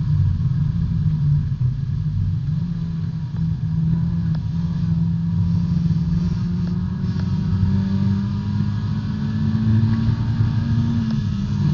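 Engine of a B-Spec subcompact race car heard from inside, running under load. Its pitch climbs slowly through the second half, then drops sharply just before the end, as at a gear change or a lift off the throttle.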